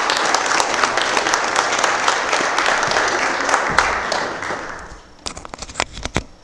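Congregation applauding after a baptism. The applause holds steady, dies away about four to five seconds in, and is followed by a few scattered sharp knocks near the end.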